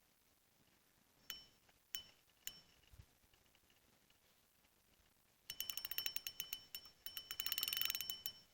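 A small bite bell on a fishing rod ringing: three single tings, then from about five and a half seconds a rapid jangling for nearly three seconds, as a fish pulls on the line.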